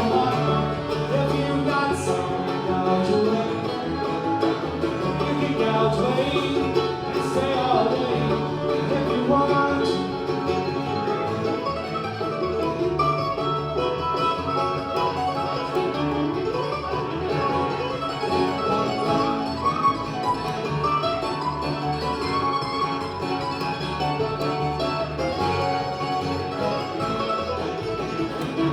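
Live acoustic bluegrass band playing a song, string instruments picking at a steady, even level throughout.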